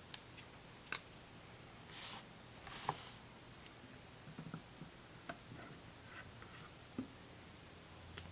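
Faint handling of small plastic parts: a few light clicks and taps scattered throughout, with two short rustles about two and three seconds in.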